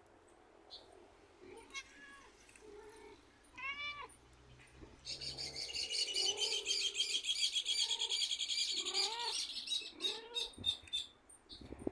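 Birds calling: a few separate mewing calls, each rising then falling in pitch, and from about five seconds in a rapid, dense twittering song that lasts about five seconds and is the loudest part.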